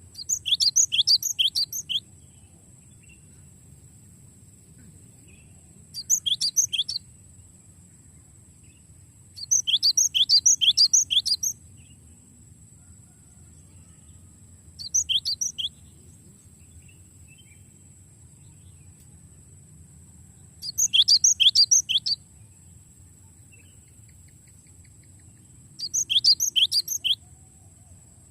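Cinereous tit (gelatik batu) singing: six rolling trills of rapid, evenly repeated high notes, each lasting one to two seconds, with pauses of a few seconds between them. A faint steady high whine runs underneath.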